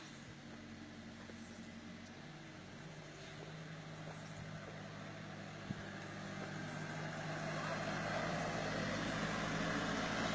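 Backhoe's diesel engine running steadily, growing louder as it comes closer, with a single sharp click a little over halfway through.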